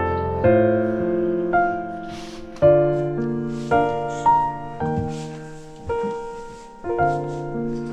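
Slow solo piano music: sustained chords struck about once a second, each fading before the next.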